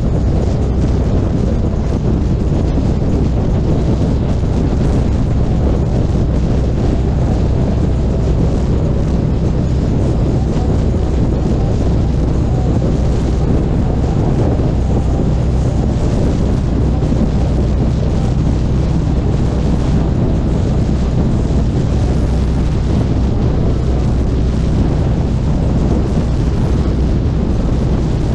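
Harley-Davidson Street Glide Special's V-twin engine running at a steady cruise, with heavy wind buffeting on the microphone.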